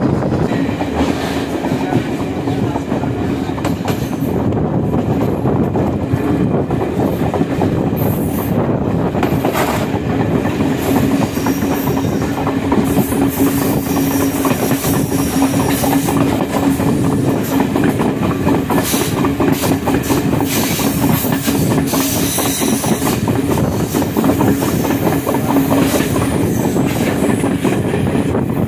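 Train running along the track, its wheels clattering over the rail joints, with a steady low hum underneath.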